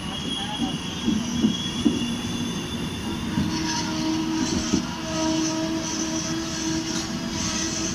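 Two passenger trains running side by side on parallel tracks: the steady rumble of coach wheels on the rails, with held squealing tones from the wheels. A higher, pulsing squeal comes in about halfway through.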